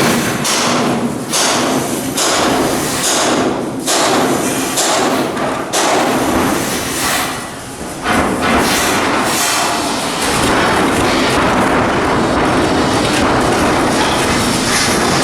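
Shipyard steel fabrication work: several loud knocks and bangs over continuous machinery noise during the first eight seconds, settling into a steady loud din after that.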